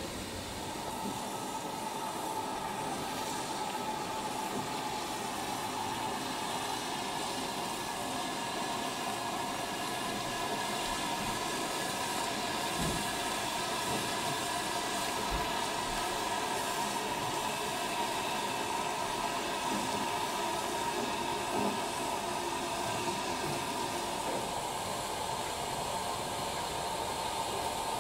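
Passenger train running along the line, a steady rolling noise of wheels on rails with a few faint knocks.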